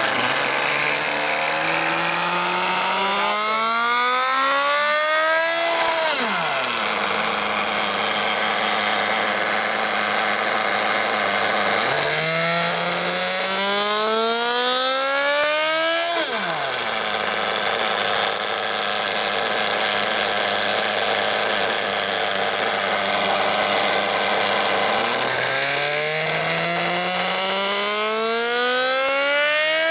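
Reedy VR-ST .21 two-stroke nitro engine on a dyno, making three full-throttle pulls. In each the pitch climbs steadily for about four to five seconds. After the first two it falls sharply back to a steady lower running speed.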